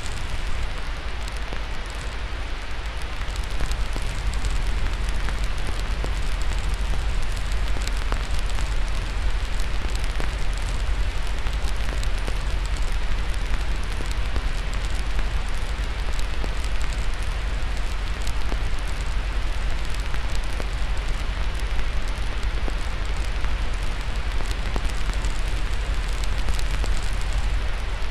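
Crackling fireplace fire, many small irregular pops and snaps, over a steady hiss with a deep rumble.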